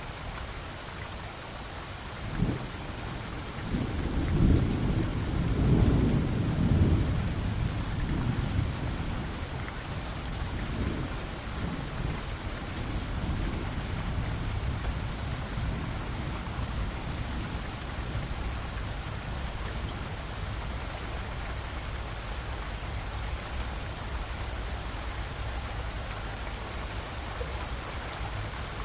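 Steady heavy rain with a long peal of thunder: a crack about two seconds in, then a rolling rumble that swells over the next few seconds and fades away.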